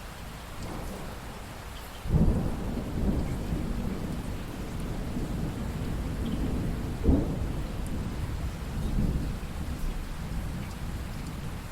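Steady rain with thunder: a loud rumble of thunder breaks in about two seconds in, a sharper crack comes a little past the middle, and the rumbling trails off under the rain.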